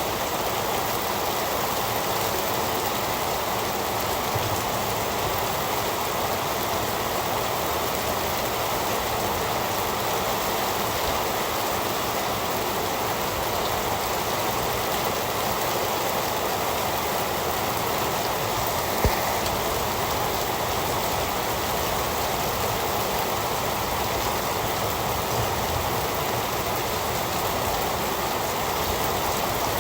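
Heavy rain falling steadily, an even, unbroken hiss. A single sharp click stands out about two-thirds of the way through.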